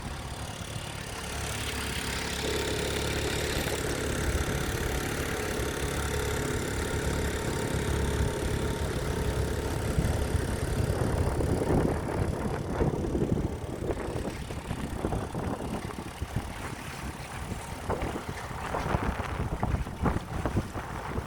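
Dinghy outboard motor running steadily, with water and wind noise; the sound gets rougher and more uneven in the second half.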